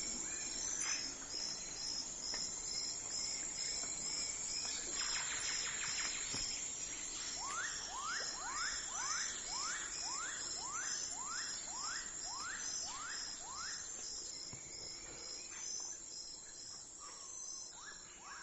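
Early-morning countryside ambience: insects chirp in a steady, pulsing high trill throughout, while a bird repeats a short rising note about twice a second for several seconds midway.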